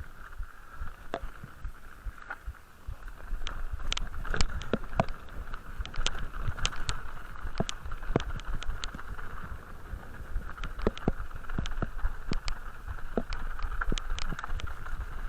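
Horse hooves striking a hard, stony track in irregular clicks and clops, with wind rumbling on the microphone and a steady hiss behind.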